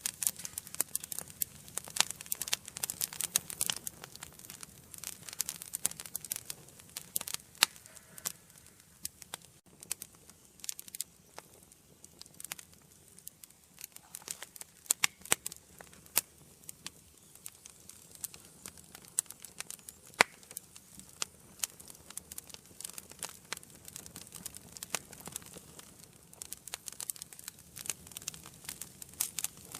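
Wood fire burning in an indoor fireplace: irregular sharp crackles and pops over a soft hiss, busiest at the start and near the end, sparser in the middle.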